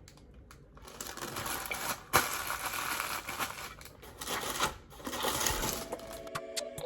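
Kitchen handling sounds: irregular rustling and scraping with light clicks. Background music comes in near the end.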